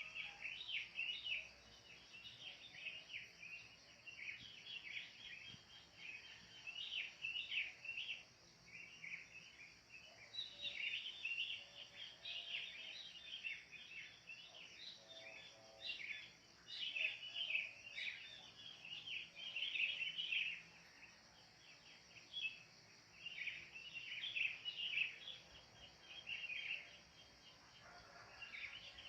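Wild birds chirping and chattering in quick, overlapping bursts, over a steady high hiss.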